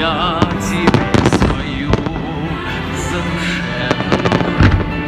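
Fireworks going off in two quick clusters of bangs and crackles, about a second in and again near the end, over continuous music.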